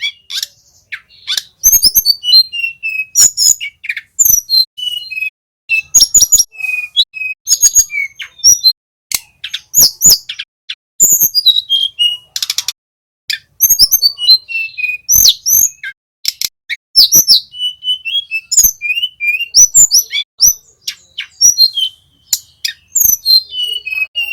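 Songbird singing a fast, varied string of sharp whistles, chirps and trills, with many sharp clicks mixed in. This is a training song played to teach cage birds.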